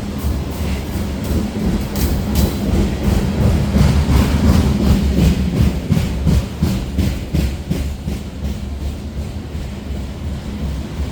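A slow, heavy freight train of grain hopper cars rolling past. Its wheels click over the rail joints in a steady rhythm of about two a second, over a low rumble, loudest around the middle.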